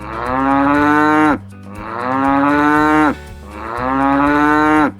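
Cow mooing three times. Each moo is long and swells in loudness before it cuts off.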